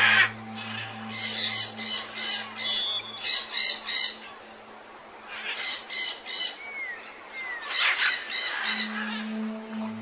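Rainforest birds squawking in three rapid runs of harsh, repeated calls, with a couple of short whistled glides in between. Under them a low, steady music drone fades out early and comes back near the end.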